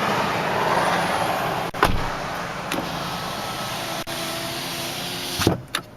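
Hyundai Elantra Touring's 2.0-litre inline-four idling steadily. There is a knock about two seconds in and a louder thump near the end, after which the sound turns much quieter.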